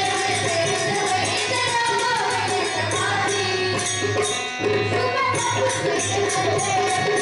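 A group of girls singing a devotional bhajan in unison, accompanied by a hand drum and a steady jingling percussion beat.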